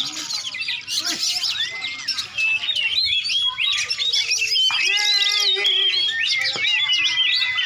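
Many caged songbirds singing at once, a dense, unbroken tangle of quick chirps, trills and whistled notes. A longer, held call rises out of it a little past halfway.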